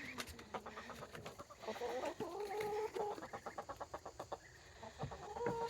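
Chickens clucking, short low calls over a dense run of quick clicks.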